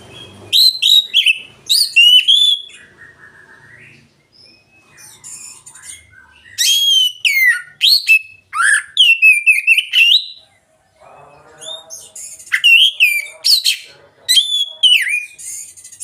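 Oriental magpie-robin (kacer) singing loud, clear whistled phrases with fast rising and falling sweeps, in three bouts with short pauses between, and a brief lower chatter in the middle of the last pause.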